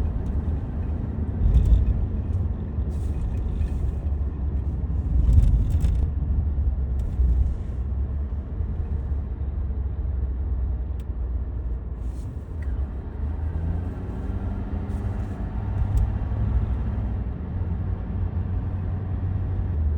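Steady low rumble of a moving vehicle heard from inside, engine and road noise, with a few faint ticks.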